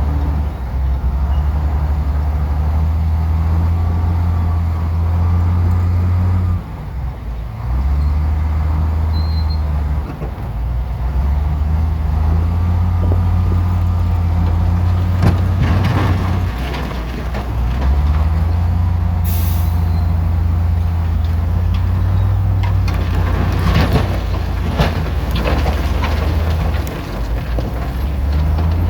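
Heavy diesel earthmoving machinery running, its engine note dropping and picking up again several times as the load changes. Metallic clanks and rattles come in the second half, and a short, sharp hiss of air sounds about two-thirds of the way through.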